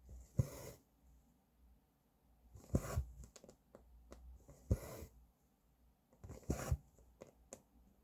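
Cross-stitch needle piercing the fabric and thread drawn through it: a sharp tick followed by a short swish, four times, about every two seconds.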